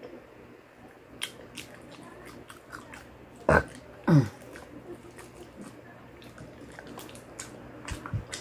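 Close-miked eating of fried chicken: scattered wet mouth clicks and smacks of chewing, with two short voiced sounds that fall in pitch, at about three and a half and four seconds in.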